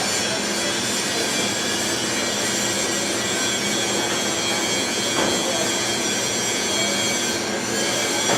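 A train running steadily, with a continuous rumble and high, steady squealing tones from the wheels.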